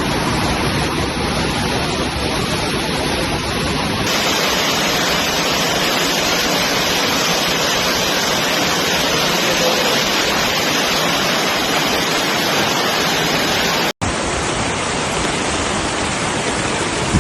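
Loud, steady rushing of water, most likely floodwater torrents and heavy rain, with the noise changing abruptly about four seconds in and again after a brief dropout near fourteen seconds.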